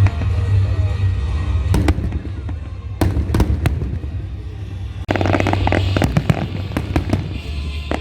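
Fireworks going off over loud music with a heavy bass: separate bangs in the first few seconds, then a dense volley of bangs and crackling from about five seconds in.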